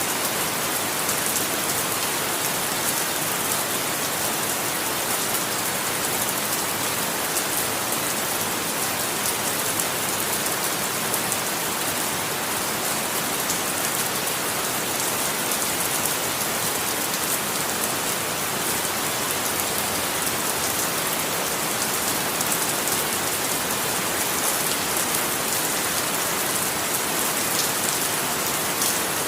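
Steady rain falling, an even hiss of drops pattering on a surface, with no thunder.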